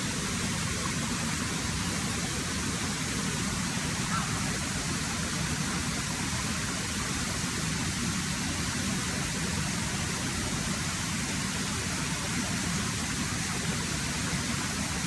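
Steady rushing water, a constant hiss with a low rumble and no breaks, like a stream or small waterfall running close by.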